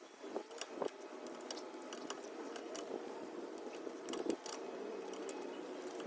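Light metallic clinks and clicks at irregular intervals, with one louder clink about half a second in: metal hand tools and parts being handled during handbrake work, over a faint steady hum.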